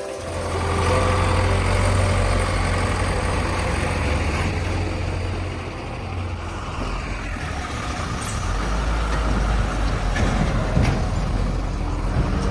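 Heavy diesel engine running with a steady low rumble. It eases slightly around the middle and builds again toward the end.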